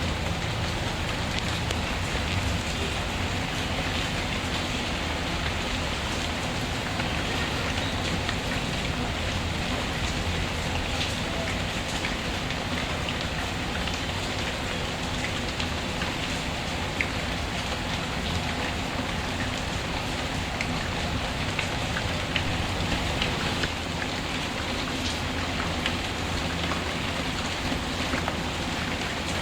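Steady rain falling on a surface, an even hiss with a few faint sharp ticks.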